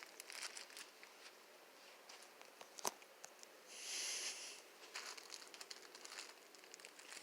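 Faint crinkling and rustling of a balloon being handled, with scattered light clicks, one sharp click about three seconds in and a short hiss about a second later.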